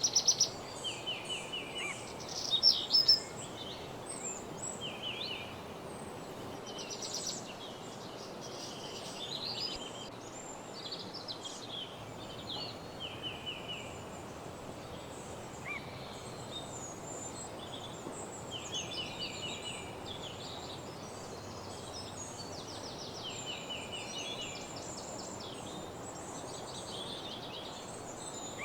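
Several songbirds singing in a woodland morning chorus: short chirps and rapid trilled note series, loudest in the first three seconds, over a steady low rush of background noise.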